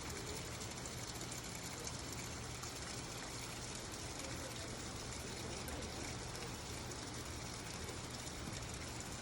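Mountain stream rushing steadily, with a low steady hum underneath.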